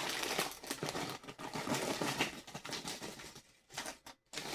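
Crinkly plastic chip bag being handled and pulled open, with a dense run of irregular crackles that die away near the end.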